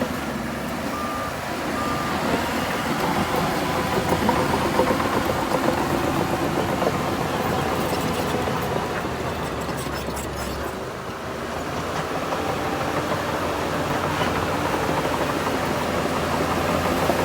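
Heavy diesel earthmoving machinery running steadily under load, with two short faint beeps from a reversing alarm about a second in and again a second later.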